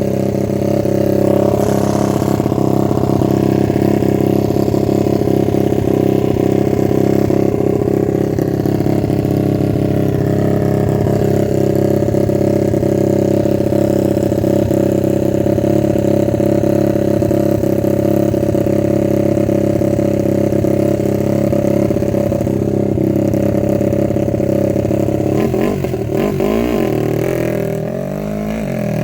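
Suzuki RM-Z250 dirt bike's four-stroke single-cylinder engine running at a fairly steady pitch as it is ridden, then revving up and down several times near the end.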